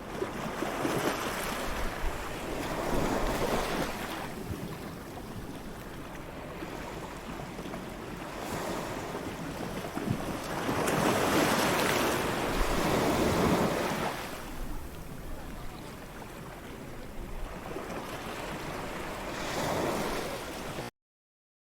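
Ocean surf on a beach: waves breaking and washing in, swelling and fading every few seconds, with one long, louder surge in the middle. The recording cuts off suddenly near the end.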